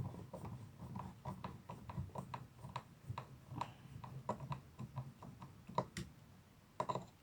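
Phillips screwdriver turning out a blind bracket screw: a run of small, irregular clicks and ticks, a few a second, with a couple of louder clicks near the end.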